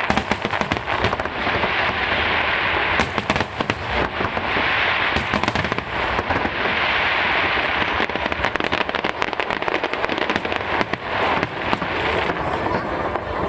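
Aerial fireworks going off in quick succession: many sharp bangs and pops over a continuous crackle.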